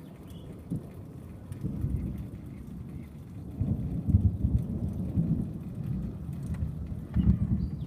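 Thunder rumbling in rolling waves, swelling loudest about four seconds in and again near the end.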